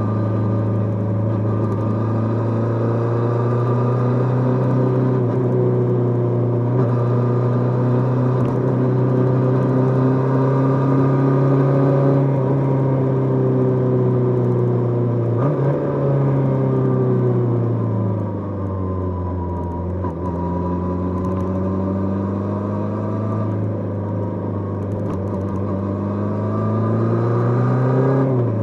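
Kawasaki GPz550 inline-four engine heard onboard while riding, running at steady revs. About halfway through the revs drop and fall away for a few seconds as the bike slows, then climb again as it pulls away, with a brief dip and rise near the end that fits a gear change.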